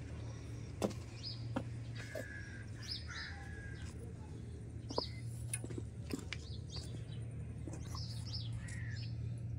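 Birds chirping: short, scattered calls and a few brief whistles over a steady low hum, with a few light knocks.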